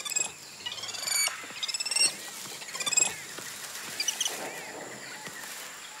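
Rainforest ambience with bird calls: short, rapid high-pitched chirping trills about once a second, then fewer and softer ones, over a soft steady background hiss.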